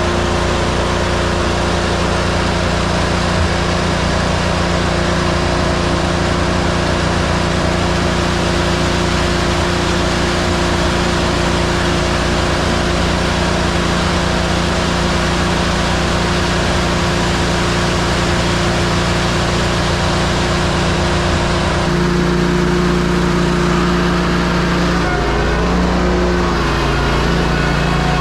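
Concrete mixer truck's engine running steadily at raised revs while the drum turns, discharging concrete. About 22 seconds in the engine note shifts and then wavers up and down.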